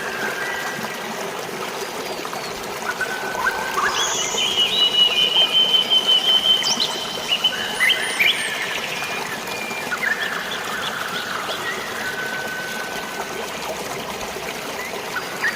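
Steady rush of flowing water and drizzling rain, with birds whistling and calling over it. The loudest bird part is a long, high, pulsing note from about four to seven seconds in.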